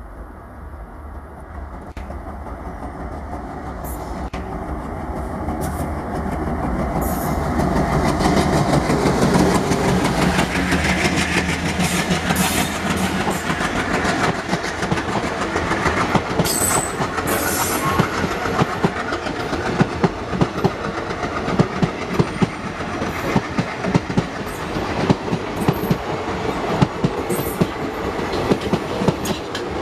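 ALCO-type diesel locomotive running toward and past, its engine throb growing louder over the first eight to ten seconds. A long rake of passenger coaches then runs by with a steady clickety-clack of wheels over rail joints.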